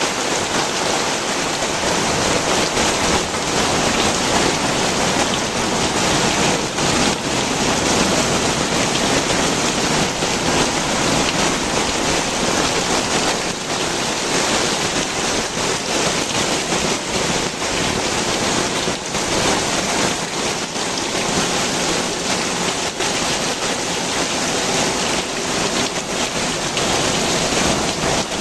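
Heavy rain pouring steadily, a dense even hiss of drops falling and splashing onto the ground.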